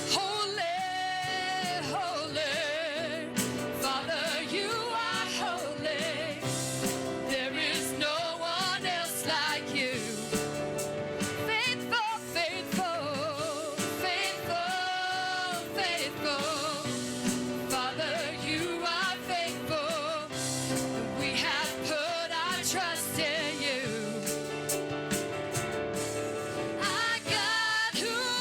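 A gospel worship song: a singer holding long notes with wide vibrato over an accompanying band.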